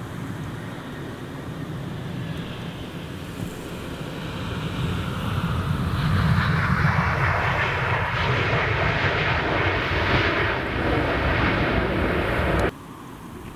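Jet airliner's engines growing steadily louder as the aircraft passes close by, a strong roar that cuts off abruptly about a second before the end.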